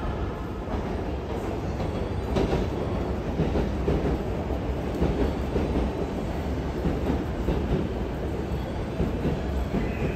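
Electric train running past, its wheels rumbling and clattering over the rail joints, growing louder a couple of seconds in. A thin high tone comes in near the end.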